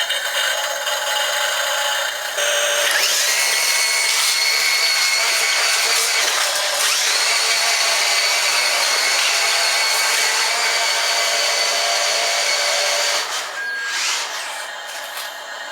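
Small electric motor whining steadily as it works a model dump truck's ramp. The whine rises in pitch about three seconds in, drops briefly near seven seconds, rises again, and stops about thirteen seconds in.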